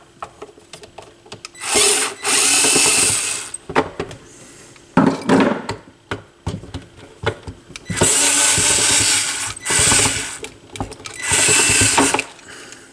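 Cordless power screwdriver or drill running in three bursts of one to two seconds each, driving screws out of the turntable's base. Short clicks and knocks of handling come between the bursts.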